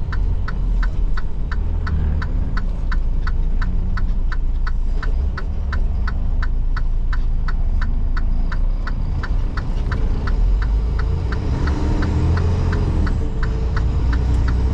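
Semi truck's turn-signal flasher ticking steadily, about three clicks a second, over the low rumble of the truck's diesel engine heard from inside the cab.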